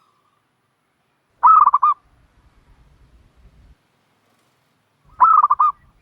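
Turtle dove giving two loud calls about four seconds apart. Each call is a short burst that rises at the start and then breaks into about five quick pulsing notes.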